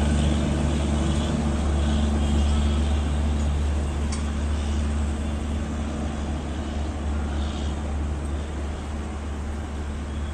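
Rumble of a passing express train's coaches receding along the line, fading steadily, with a low engine drone that dies away in the first few seconds.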